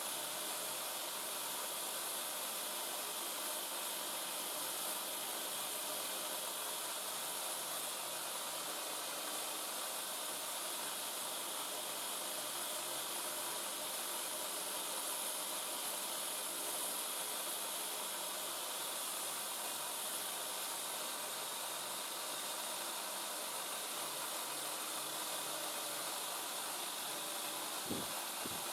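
Homemade belt grinder running steadily, giving a constant hiss with a faint whine, and a short knock near the end.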